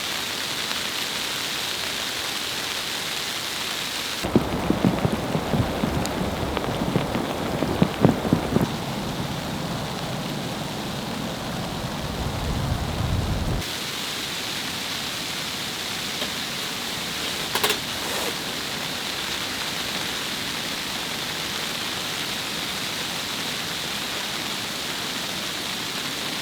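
Steady rain falling, an even hiss. From about four seconds in, a louder low rumbling with irregular knocks joins it for about nine seconds and cuts off suddenly; a single sharp click comes near eighteen seconds.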